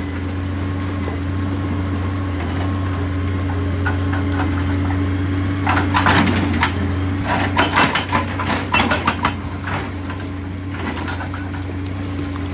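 JCB excavator's diesel engine running steadily, with a flurry of irregular sharp clattering knocks about halfway through that die away a few seconds later.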